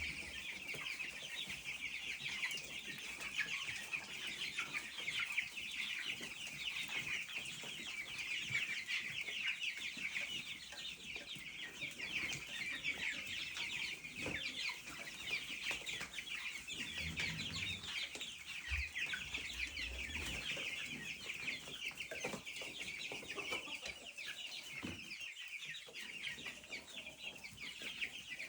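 A flock of chickens clucking, many short calls overlapping in a continuous chatter, with a brief low rumble about two-thirds of the way through.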